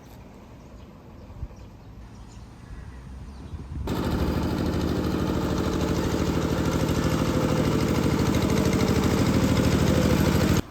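A motor engine running with a fast, steady pulse, starting loud about four seconds in and cutting off abruptly near the end.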